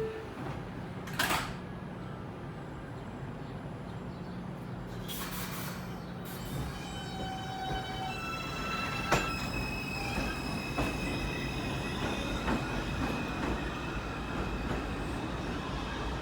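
R142 subway train doors sliding shut with a knock about a second in, a short hiss around five seconds, then the electric traction motors starting up with a whine that climbs in steps as the train pulls out of the station, over a steady low rumble.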